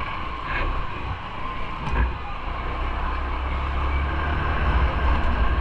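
Road traffic noise with a low rumble that builds through the second half, and a few short clicks.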